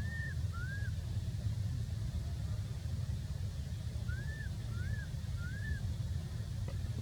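Short, thin, squeaky calls that rise and fall, two at the start and three more about four seconds in, over a steady low rumble.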